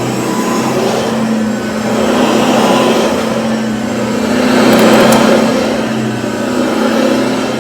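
Cordless stick vacuum cleaner running steadily, its motor hum under an airy rush that swells louder twice, most around the middle.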